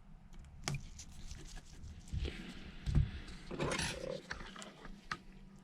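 Light clicks and taps of small screws and precision tools being handled inside an opened phone, with a soft hissing rush about two seconds in and a louder rustle a little before four seconds in.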